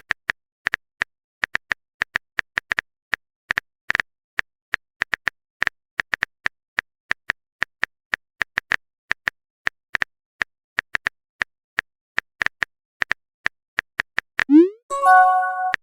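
Smartphone keyboard typing clicks, irregular taps at about three to four a second, then near the end a quick rising pop and short chime, a message-sent sound effect.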